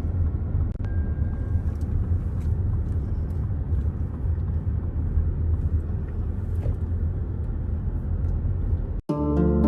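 Steady low rumble of a car in motion, heard from inside the cabin, cut off abruptly near the end.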